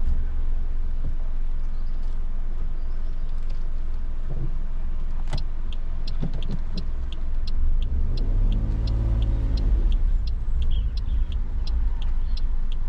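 Car cabin during a slow parking manoeuvre: a steady low engine rumble, with the turn-signal relay ticking evenly, about three ticks a second, from about halfway through. A brief hum rises and falls in pitch about two-thirds of the way in.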